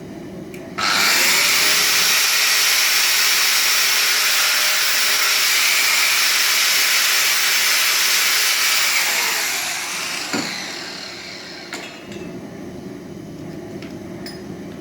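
Angle grinder switched on about a second in and running for about eight seconds as its cutting disc cuts through a steel handbrake cable. It is then switched off and spins down with a falling whine, with a single clank during the spin-down.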